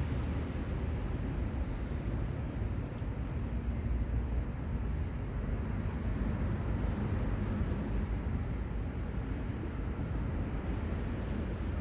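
Outdoor seaside ambience: a steady low rumble with no distinct events, under faint, brief high chirps.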